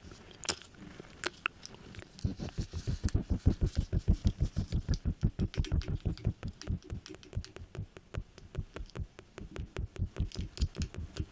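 Rapid, even low-pitched pulses, several a second, beginning about two seconds in, with light clicks on top: a repetitive tapping or rubbing ASMR trigger.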